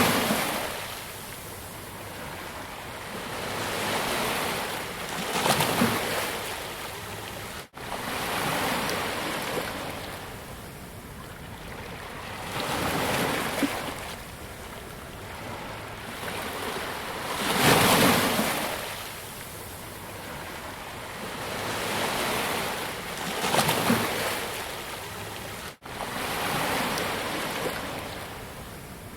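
Ocean waves breaking on a beach: a steady wash of surf that swells and fades every few seconds, the biggest wave arriving about two-thirds of the way in. The sound cuts out for an instant twice.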